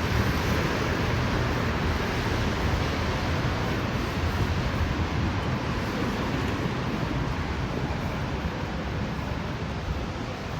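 City street traffic: a steady hiss of vehicles and tyres on wet asphalt, easing slightly toward the end.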